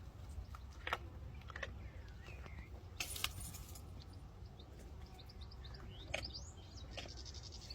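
A donkey chewing crunchy food, with sharp, irregular crunches a second or more apart. Birds chirp in the background in the second half.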